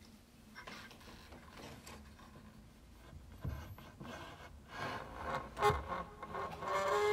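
The wooden fallboard of an old upright piano being opened, wood scraping and rubbing, with a couple of dull knocks. The first piano notes sound near the end.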